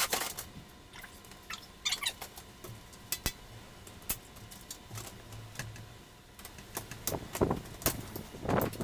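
Scattered metallic clicks, knocks and short scrapes of hand tools working on a camper awning arm to free its pivot pin.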